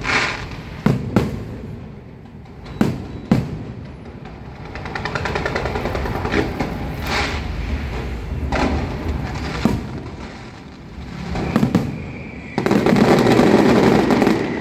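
Aerial fireworks going off: several sharp bangs in the first few seconds, then a stretch of fast crackling, another bang, and a dense, loud burst of crackling near the end.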